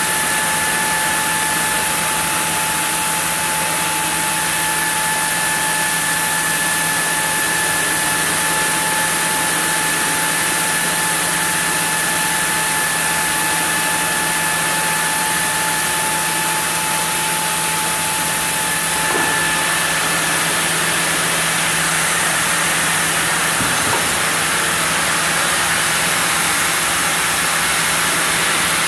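Sawmill saw running steadily while sawing a block of zelkova into boards, a steady low hum under a constant hiss. A thin steady whine stops about 19 seconds in.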